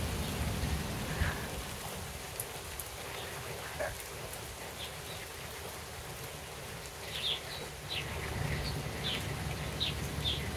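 Light rain falling in a steady patter, with a few short bird chirps in the last few seconds.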